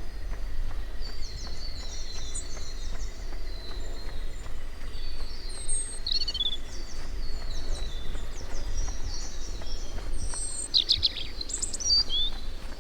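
Several wild birds chirping and calling in high, short notes and trills, with a quick run of louder calls near the end, over a steady low rumble.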